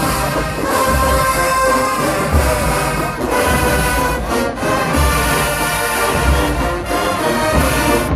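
HBCU marching band playing, a brass section holding sustained chords over recurring heavy bass drum hits.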